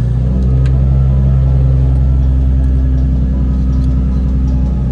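Nissan VQ35 3.5-litre V6 engine idling steadily, running after a start on a newly fitted starter.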